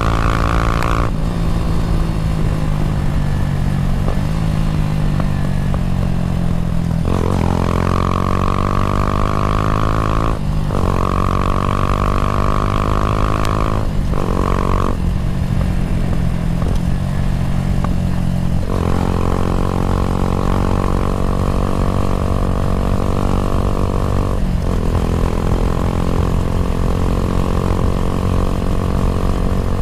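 Kawasaki W175's single-cylinder four-stroke engine running through a racing exhaust, its pitch climbing steadily for a few seconds at a time, then breaking off and dropping before climbing again, about half a dozen times.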